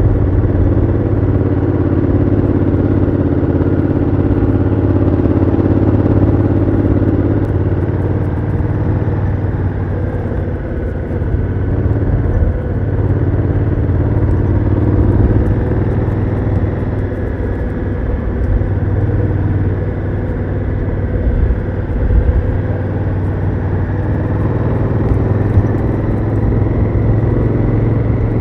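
Honda Africa Twin CRF1000L's parallel-twin engine running under way through its stock exhaust, heard from onboard the motorcycle. The engine note stays fairly steady, with one higher band of the sound dropping away about seven seconds in.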